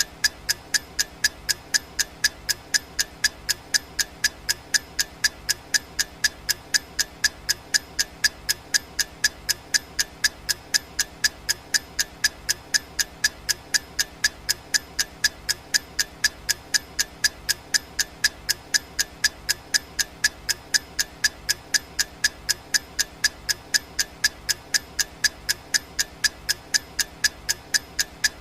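Clock ticking sound effect of a countdown timer: sharp, evenly spaced ticks, several a second, keeping a steady rhythm without a break.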